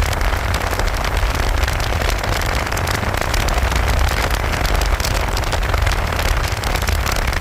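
Riding noise from a moving Yamaha FZ Fi V3 motorcycle: wind rushing over the camera microphone as a steady low rumble, with a fine crackle of rain hitting it.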